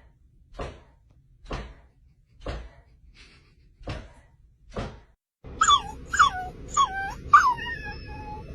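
A dog whining in a run of five short, high cries, each bending down in pitch, over a steady background hiss in the second half. Before that come soft short sounds, about one a second.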